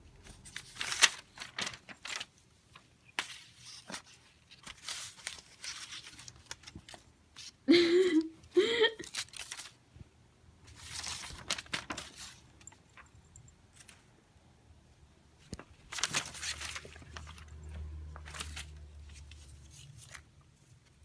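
Paper rustling and crinkling in irregular bursts as a cat plays in it. About eight seconds in come two short voiced calls.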